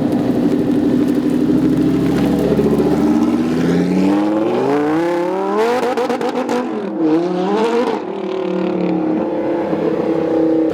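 Performance car engine idling with a deep, steady note, then revving and pulling away with its pitch climbing. The pitch drops briefly about seven seconds in, then climbs again before settling to a steadier note.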